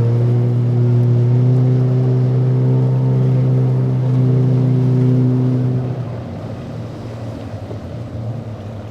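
Motorboat engine running at a steady pitch, which drops away about six seconds in, leaving a lower, rougher rumble.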